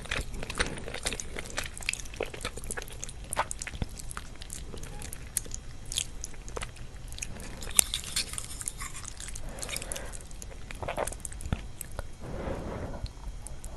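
Chewing curry noodles with cheese: irregular wet mouth clicks and smacks, several a second.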